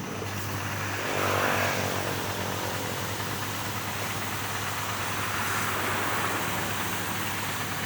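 A steady low motor hum runs throughout, with a rushing hiss that swells about a second in and again around six seconds.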